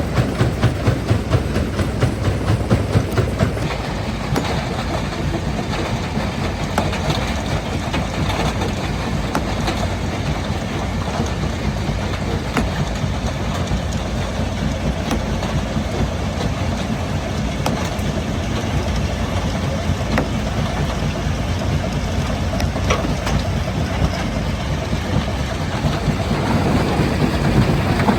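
Large quarry jaw crusher running and crushing stone: heavy rhythmic thudding about two or three times a second for the first few seconds, then a steadier rumble with scattered sharp cracks, the rhythmic thudding returning near the end.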